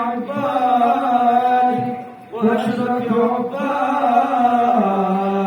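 A solo voice chanting a shalawat in Arabic, with long held and ornamented notes and a short breath pause about two seconds in.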